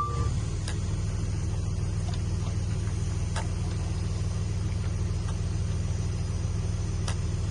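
Heavy diesel earthmoving machinery, a bulldozer or dump truck, running steadily with a low, even drone. A few faint clicks sound over it.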